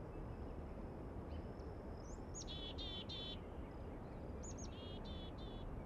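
A songbird sings two short phrases, about 2 and 4.5 seconds in, each a quick upward note followed by a few rapid buzzy notes, with a few faint chirps between. Under it runs a steady outdoor background with a low rumble.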